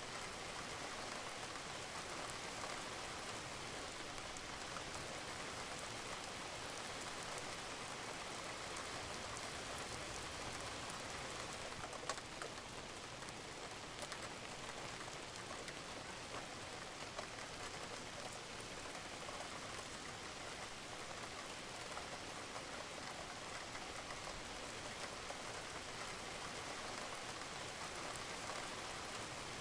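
Steady rain falling on a roof, with water dripping and a few louder single drops now and then.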